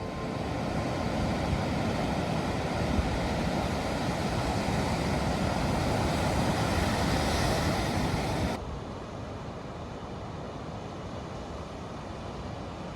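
Truck driving on the road: steady engine and road rumble. About eight and a half seconds in it cuts off abruptly to a quieter steady outdoor noise.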